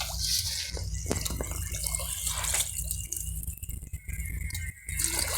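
Water splashing and dripping in short irregular bursts as someone wades through shallow water, over a steady low hum.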